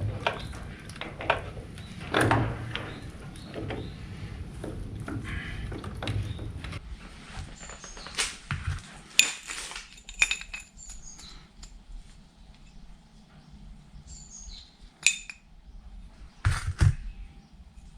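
Metal objects clinking and knocking irregularly, some strikes ringing briefly. A low hum underneath stops about seven seconds in, and the clinks grow sparser after it.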